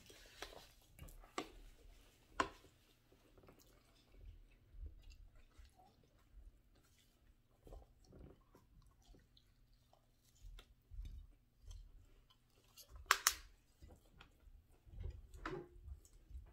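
Close-up chewing and mouth sounds of someone eating pizza, with scattered soft clicks and taps; the loudest is a quick double click about 13 seconds in.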